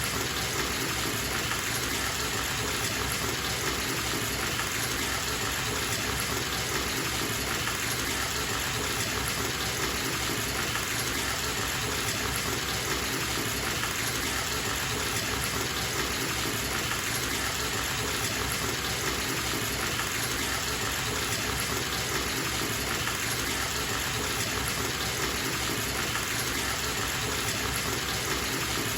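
Bathtub tap running steadily, water gushing into a filling tub, an even rush with no breaks.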